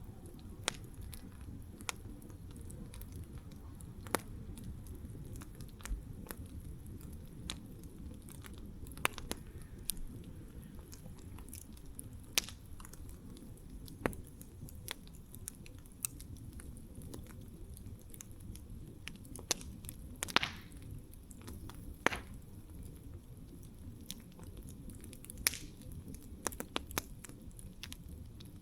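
Wood campfire crackling: irregular small pops and snaps over a low steady rumble, with two louder snaps followed by a brief hiss about two-thirds of the way through.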